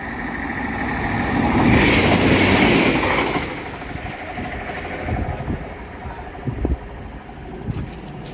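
A Class 197 diesel multiple unit passing over the level crossing. The noise builds, peaks for a second or two, then drops away quickly a little over three seconds in, leaving a fading rumble with a few knocks.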